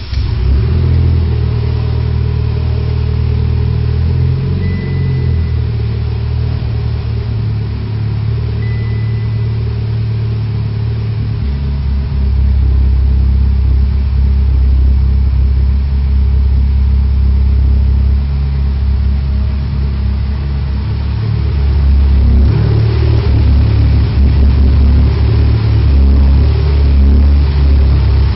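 Mitsubishi Lancer Evolution X's built turbocharged 2.0-litre four-cylinder engine catching on start-up and settling into a steady idle, getting louder in a step about twelve seconds in and again past twenty seconds.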